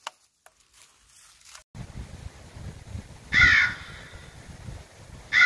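After a short near-silence, a bird gives two loud harsh calls about two seconds apart over a low, rumbling background.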